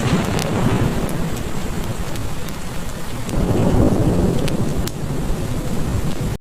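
Heavy rain falling steadily, with sharp crackles from a wood fire. A low roll of thunder swells about halfway through.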